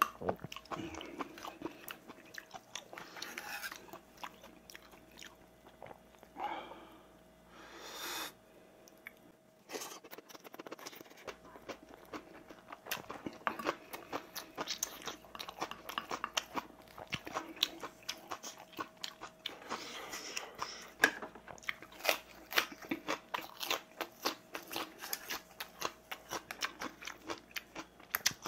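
Close-up chewing and crunching of rice and seasoned vegetable side dishes, with many short sharp clicks of a metal spoon and chopsticks against bowls and a steel tray, busiest in the second half.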